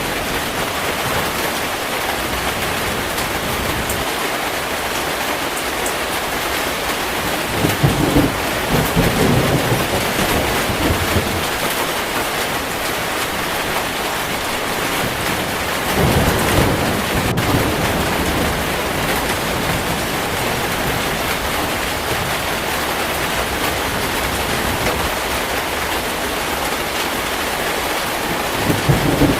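Heavy rain falling steadily, with thunder rumbling about eight seconds in, again around sixteen seconds, and once more near the end.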